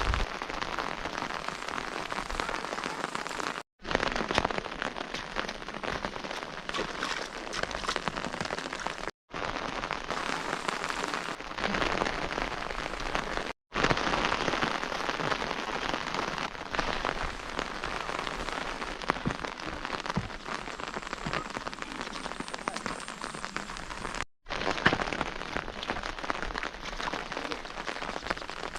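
Steady rain falling, with many individual drops ticking through it. The sound drops out for an instant four times, at cuts between clips.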